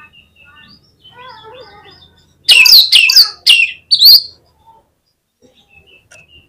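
Oriental magpie-robin singing: soft twittering, then about two and a half seconds in a burst of four loud, harsh downward-sweeping notes, then soft chirps again.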